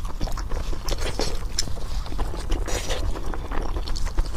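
Close-miked eating of pork: chewing and crunching, a scatter of short crisp clicks over a steady low rumble.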